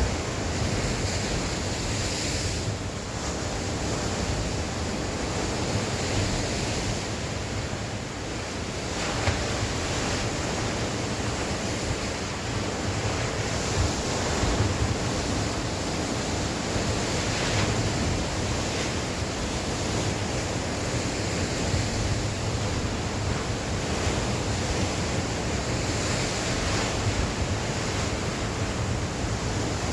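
Sea waves breaking and washing on the shore, a steady wash that swells and eases, with wind buffeting the microphone.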